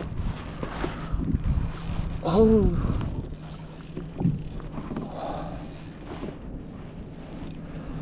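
Fishing reel clicking as line is reeled in against a big hooked bass, a dense run of rapid clicks over a steady low whir in the first couple of seconds, then sparser clicks.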